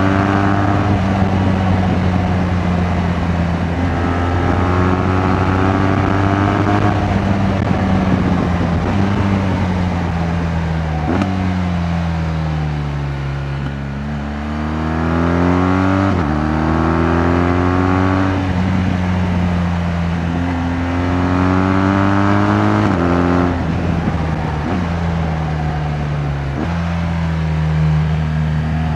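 BMW R 1200 GS Adventure's boxer-twin engine running under way, pulling through the gears: its pitch climbs and then drops sharply at each shift, a few times. Around the middle it sinks slowly as the bike slows, then climbs again under throttle.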